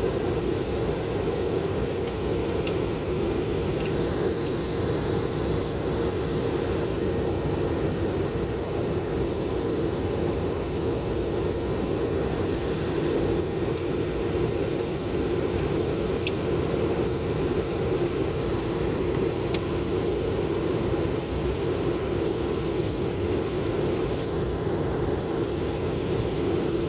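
Steady drone of an airliner in flight, heard from inside the cabin: even engine and airflow noise with a strong low hum, unchanging throughout.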